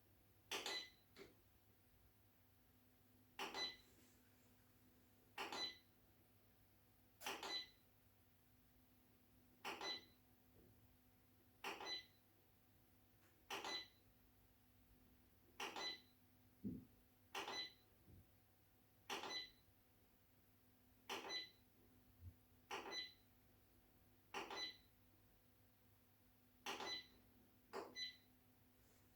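Short electronic beeps from an Aflamo Royal electric fireplace's control, repeating about every two seconds and sometimes doubled, as its settings are stepped through. A faint steady hum sits underneath.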